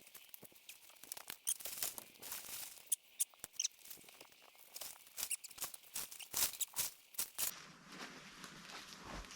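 Irregular crackling and crunching clicks for about seven seconds, then a change to a faint steady hiss near the end.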